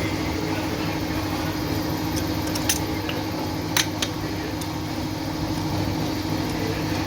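A steady low mechanical hum from a running machine, with a few short sharp clicks near the middle.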